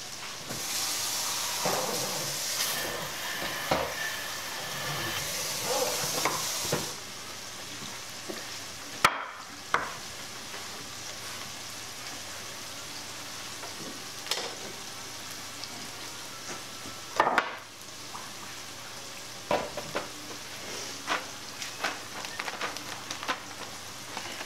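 Chicken of the woods mushroom pieces deep frying in a skillet of oil kept relatively low, a steady sizzle that is louder for the first seven seconds or so. Scattered knocks and clatter of a cutting board and dishes being handled on the counter.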